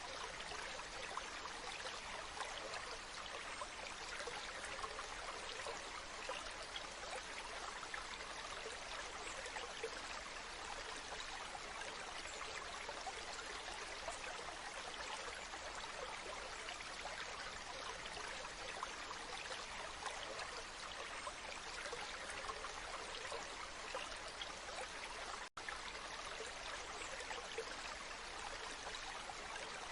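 Waterfall: a steady rush and splash of falling water, with one momentary dropout about 25 seconds in.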